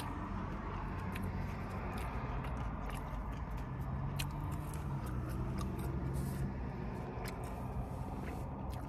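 Mouth sounds of eating up close: fingers licked, then a fry bitten and chewed, with scattered small wet clicks over a steady low background hum.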